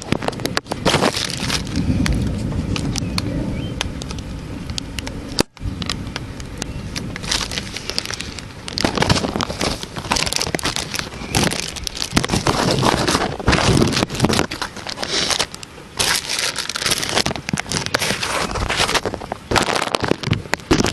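Thunderstorm: rough crackling wind and rain noise on the microphone, with a low rumble of thunder in the first few seconds. The sound cuts out for an instant about five seconds in.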